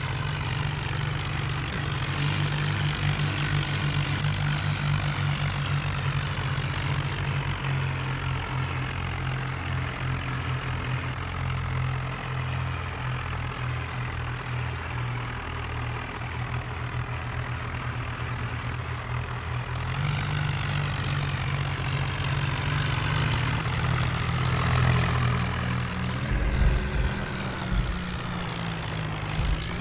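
Tractor engine running steadily, with a low even drone. A few short knocks come near the end.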